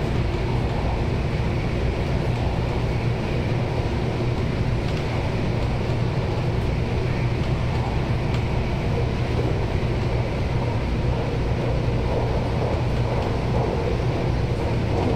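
MTR Tung Chung line A-train (Adtranz-CAF electric multiple unit) heard from inside the carriage as it runs, with a steady low hum under an even rumble that holds constant throughout.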